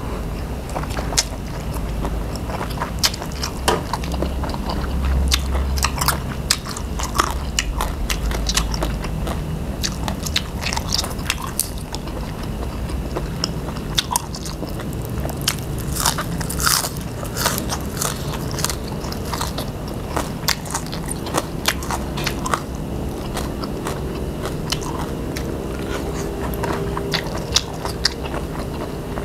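Close-miked eating: chewing and crunching through mouthfuls of spicy papaya salad with crispy squid tentacles and raw greens, a dense run of crisp bites with no pause.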